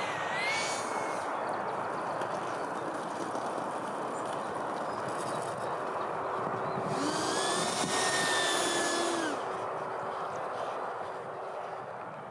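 Electric ducted fan of a radio-controlled Freewing Eurofighter model jet whining as it flies by, briefly near the start and loudest with a rise and fall in pitch from about seven to nine seconds in, over steady wind noise on the microphone.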